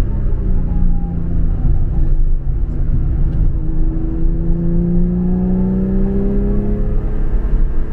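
Car engine pulling hard on a race circuit, its pitch rising steadily through the gear from about halfway in, over a heavy low rumble.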